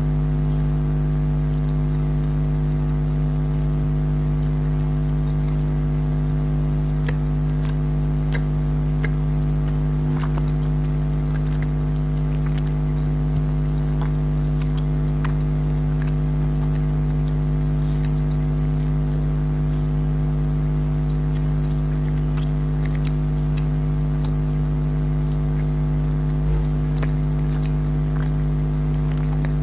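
A steady hum with several fixed tones, over scattered faint clicks and smacks of someone chewing gummy jelly candy.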